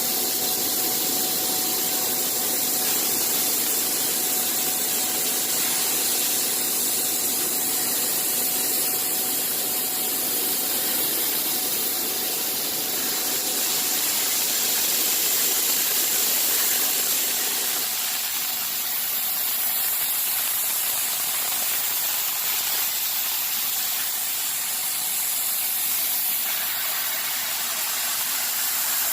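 CNC machine running, a steady hiss with constant whining tones; the lower part of the noise drops away about 18 seconds in while the hiss carries on.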